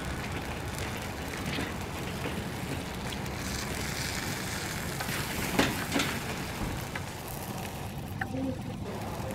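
Chicken frying and sizzling in oil in a steel tawa over charcoal, with a wooden spatula scraping and knocking against the pan as the pieces are turned; the loudest knock comes a little past halfway. A steady low rumble runs underneath.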